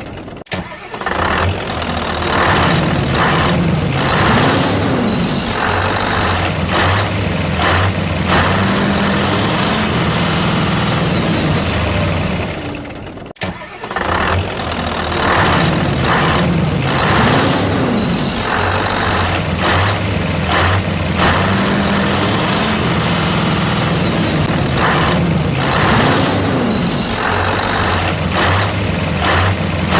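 Recorded truck engine sound: the engine starts, then runs and revs, with short knocks and rising and falling tones. The whole sequence repeats as a loop about every 13 seconds.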